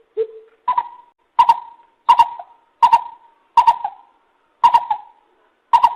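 Lesser coucal calling: a series of short notes, one lower note, then seven higher ones, the gaps between them slowly lengthening.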